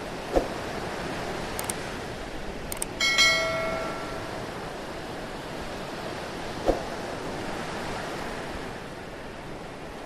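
Steady rush of water. About three seconds in, a single bright metallic ring, like a small bell struck once, sounds and fades within about a second. A couple of soft knocks come near the start and again near seven seconds.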